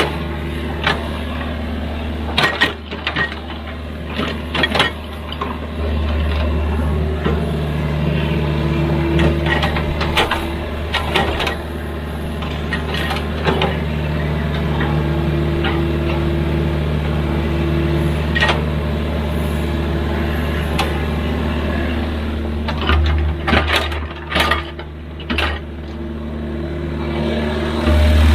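Excavator's diesel engine running steadily under work, with frequent sharp clanks and knocks throughout. The engine grows louder near the end.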